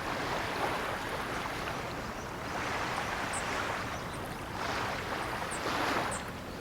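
Ocean surf breaking and washing onto the shore, the rush of water swelling and easing in waves every couple of seconds, with a few faint high ticks over it.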